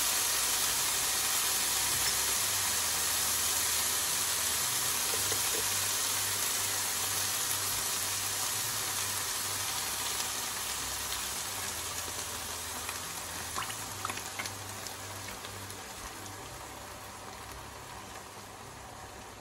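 Sliced mushrooms and onions sizzling in a frying pan: a steady hiss that slowly fades, with a few faint clicks about two thirds of the way in.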